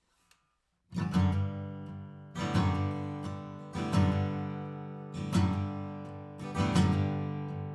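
Background music: acoustic guitar strumming chords, starting about a second in, one strum about every second and a half, each ringing out and fading.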